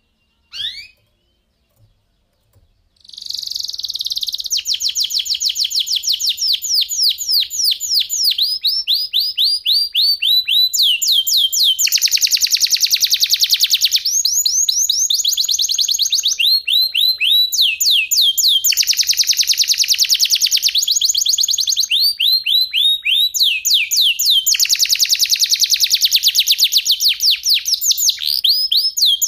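Domestic canary singing: a short call under a second in, then from about three seconds in one long unbroken song of rapid trilled rolls, the repeated notes switching to a new pattern every second or two.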